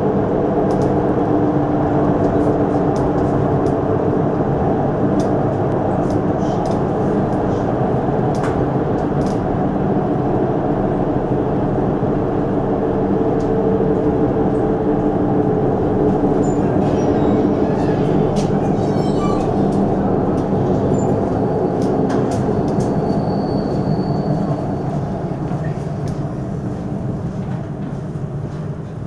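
Inside the bar car of a moving loco-hauled passenger train: a steady rumble of wheels on the rails with scattered clicks. It grows quieter near the end as the train slows into the station.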